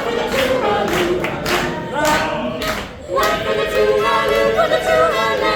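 A group of voices singing together in harmony, with a steady beat about twice a second through the first half, then long held chords near the end.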